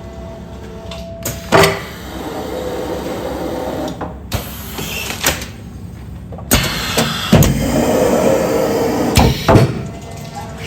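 Automatic food-container sealing machine cycling through continuous packing: stretches of steady mechanical running broken by sharp clunks, about seven in all.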